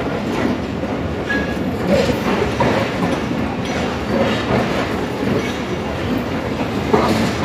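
Pakistan Railways passenger coaches rolling past along the platform track with a steady rumble. The wheels clack over the rail joints again and again.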